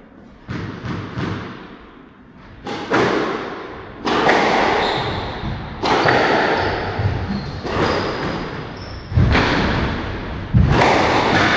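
Squash rally: the ball cracking off rackets and thudding against the court walls at irregular intervals about a second or two apart, each impact ringing briefly in the enclosed court.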